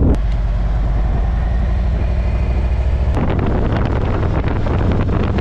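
Harley-Davidson motorcycle engine running steadily, a low rumble. The sound changes abruptly near the start and again about three seconds in.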